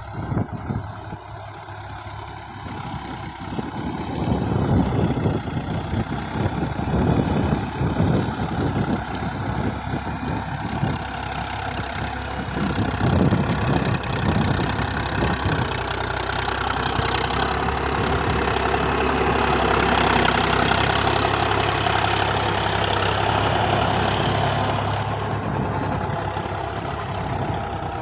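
Diesel tractor engines running hard, with uneven heavy chugging and knocks in the first half, then a steadier, louder drone that eases off near the end.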